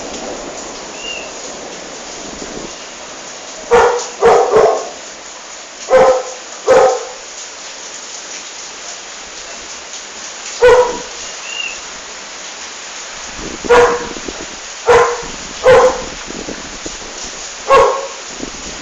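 A dog barking: about ten sharp barks in loose clusters, some in quick pairs or threes. Behind them runs a steady hiss, likely storm rain.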